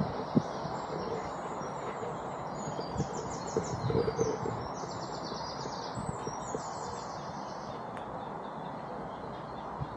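Small songbirds singing repeated high trilled phrases over a steady outdoor background noise, with a few soft irregular thumps.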